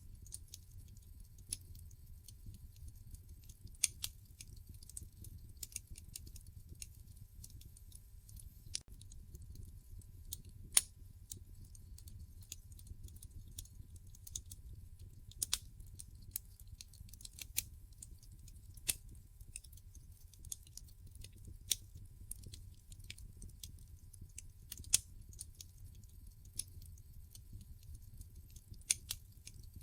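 Wood fire crackling in a fireplace: irregular sharp pops and snaps from the burning logs over a low, steady rumble of the flames.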